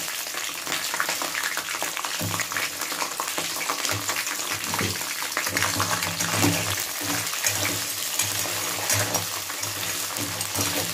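Onions frying in hot oil in a pan: a steady sizzle with many small crackles.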